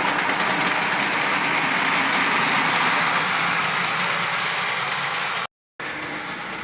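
Brass O-scale SD40 model diesel locomotive running, its electric motor and gearboxes giving a loud, steady grinding whir: two of the worn gearboxes aren't real happy and make noise. The sound cuts out briefly near the end, then resumes a little quieter.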